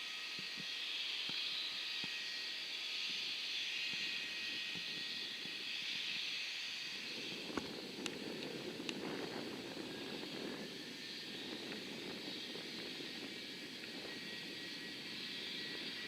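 Jet aircraft engines heard at a distance: a steady high hiss and whine, with a lower rumble coming in about seven seconds in. A couple of short clicks near the middle.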